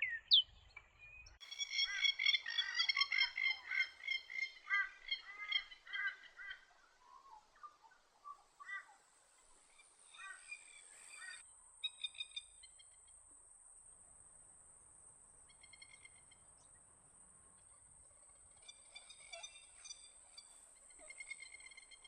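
Buff-banded rail calling in rapid runs of repeated notes, loudest over the first several seconds, then in shorter runs later on. From about eight seconds in there is a steady high-pitched hiss underneath.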